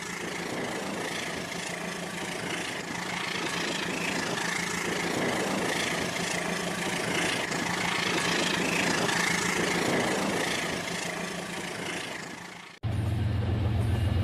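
Model train running on its track: a steady mechanical running noise that swells a little and fades, then cuts off abruptly near the end and gives way to a louder, deeper hum.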